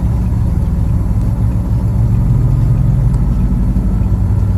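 Peterbilt semi truck's diesel engine running at low speed, a steady low drone that grows a little louder about halfway through.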